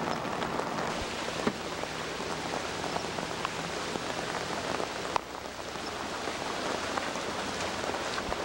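Heavy rain falling steadily during a flooding storm, with two sharp clicks, one about a second and a half in and one about five seconds in.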